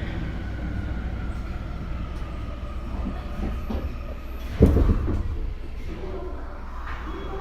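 Tokyo Metro 02 series subway train running, a steady low rumble of wheels on rail with a faint whine falling in pitch over the first few seconds. One loud knock comes about halfway through.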